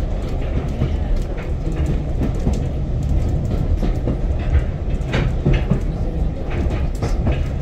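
Heritage railway carriage running along the track, heard from inside: a steady low rumble with irregular clicks and knocks from the wheels on the rails.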